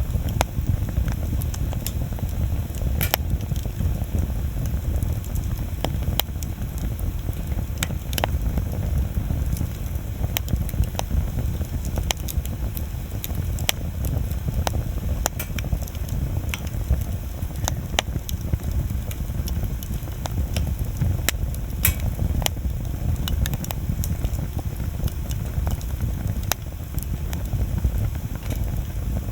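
Wood bonfire crackling, with sharp pops at irregular moments over a steady low rumble.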